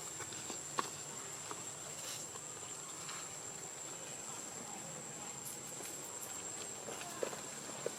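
Steady high-pitched insect trill, unbroken throughout, with a few faint short clicks about a second in and near the end.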